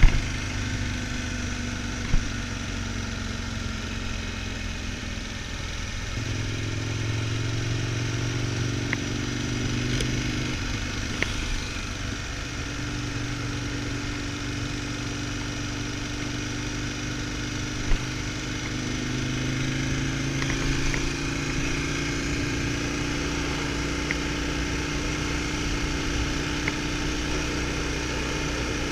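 Ducati Multistrada 1000DS's air-cooled L-twin engine running steadily under way on a climb, its note shifting lower and stronger a few seconds in and again later as the throttle changes. A couple of short sharp clicks.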